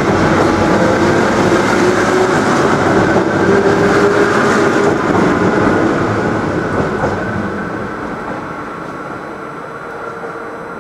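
Local passenger train pulling out of the station past the microphone, wheels clattering over the rails under a faint rising whine. It is loud for the first half, then fades steadily as it moves away.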